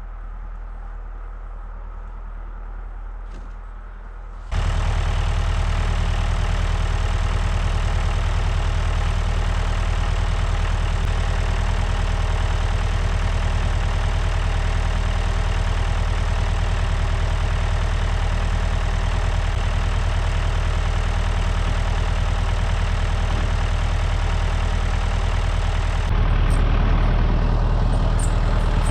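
An engine running steadily at a low level, then much louder from about four and a half seconds in, holding an even, steady note, with a slight change in tone a few seconds before the end.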